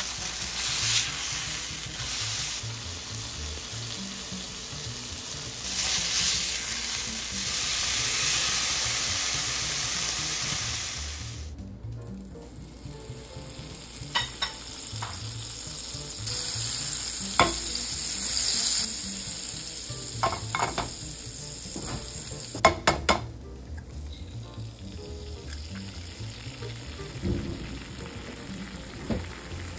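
Ground-beef burger patty sizzling loudly in a hot cast-iron skillet. After a sudden cut, butter and an egg fry more quietly in a nonstick pan, with a few sharp taps partway through.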